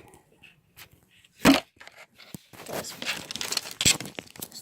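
Store-bought slime being squeezed and pulled by hand, giving sticky crackling with a few sharp pops, the loudest about a second and a half in and again near the end.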